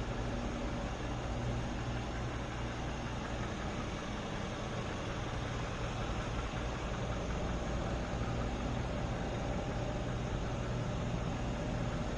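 Mercedes-AMG S63's 5.5-litre twin-turbocharged V8 idling steadily, with no revving.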